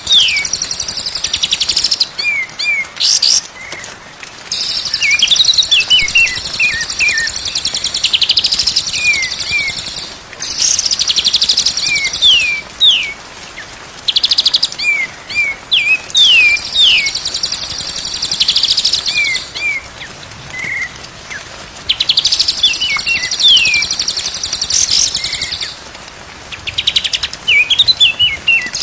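White-rumped shama singing in repeated phrases: clear downward-sliding whistled notes alternate with loud, fast, buzzy high-pitched trills, with short pauses between phrases every few seconds.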